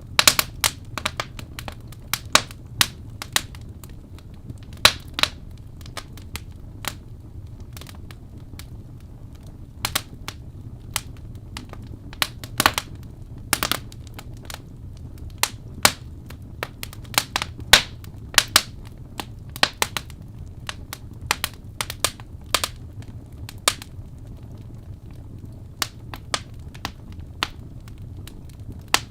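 Birch logs burning in a fireplace, crackling and popping at irregular intervals over a steady low rumble of the flames.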